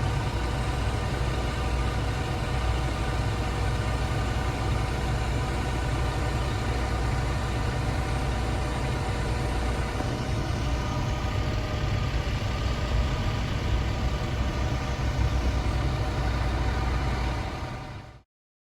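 Fire truck's diesel engine running steadily, a low hum with several constant tones above it; it cuts off suddenly near the end.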